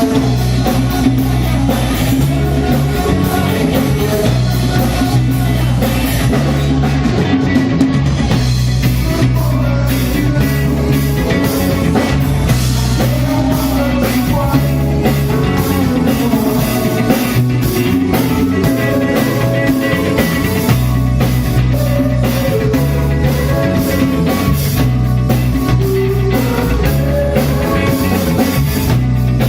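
Rock band playing loud, steady music with drum kit, guitar and vocals, heard as a band sound check.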